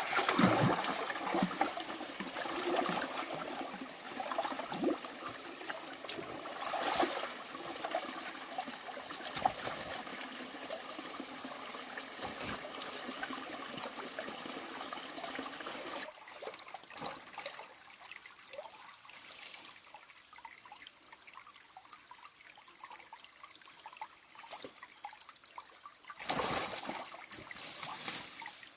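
Water trickling and running steadily, with a few louder swells.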